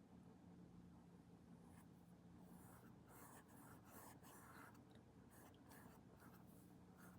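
Faint, soft scratchy strokes of a paintbrush laying acrylic paint onto a painting surface, about two or three strokes a second, starting about two seconds in.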